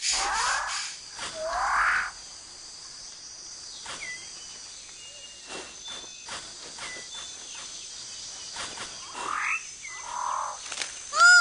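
Rainforest ambience: a steady high insect drone under loud swooping animal calls, two in the first couple of seconds and two more near the end, with scattered short chirps between them.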